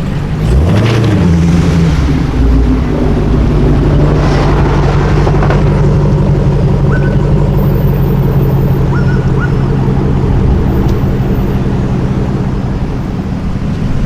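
A sports car's engine blipping its revs up and back down once, about half a second in, then running steadily at low revs.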